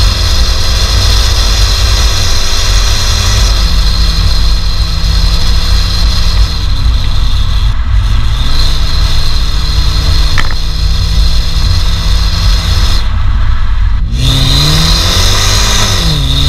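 BMW 120i E88's 2.0-litre naturally aspirated four-cylinder engine pulling under acceleration, its pitch climbing and then dropping at each gear change, about three times, over heavy low road and wind rumble.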